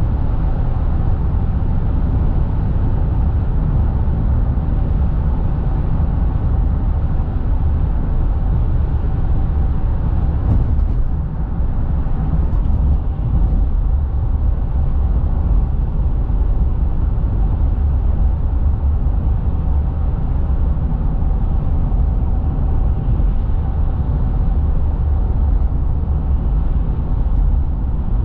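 Steady road and engine noise of a car driving, a continuous low rumble with a faint steady hum. A few faint clicks come about ten to fourteen seconds in.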